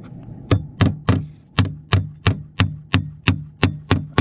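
Hammer striking in a steady rhythm, about a dozen blows at roughly three a second, each with a short low ring after it.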